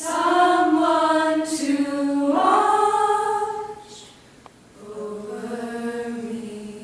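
Unaccompanied singing in long held notes. The voice sings two sustained phrases, falls silent for about a second, then sings a lower phrase.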